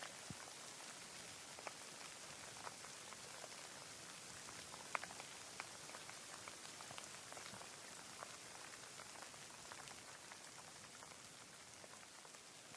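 Rain falling: a steady hiss with scattered individual drops ticking, one louder drop about five seconds in.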